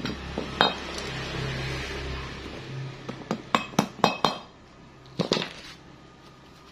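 Metal tools and bearing parts clinking and tapping: a few sharp metallic clinks, most of them bunched between about three and four and a half seconds in, while new wheel bearings are fitted into a motorcycle's rear hub. A low steady hum runs under the first couple of seconds and then stops.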